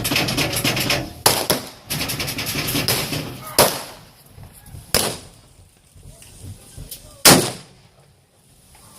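Blank-firing guns shot four times, one to two and a half seconds apart, each a sharp crack; the last shot is the loudest.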